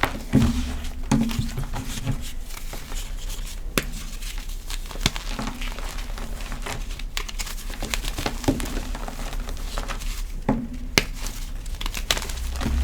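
Crispy gym chalk being crushed and crumbled by hand, a dense continuous crackle with a few sharper snaps scattered through.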